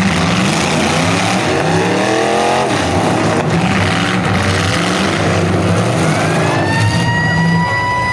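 Demolition derby cars' engines revving up and down over a steady low engine drone. About six seconds in, a siren winds up and holds a high steady tone.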